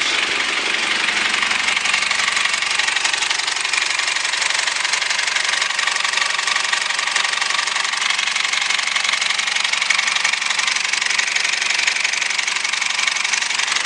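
Foton Tunland's 2.8-litre Cummins four-cylinder turbo diesel idling steadily.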